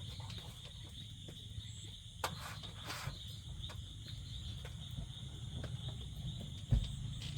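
Steady high-pitched drone of insects over a low rumble, with a few faint clicks partway through and a short thump near the end.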